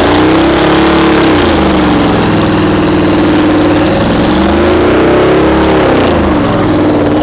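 Car engine held at high revs, its pitch rising and falling several times, over a steady hiss.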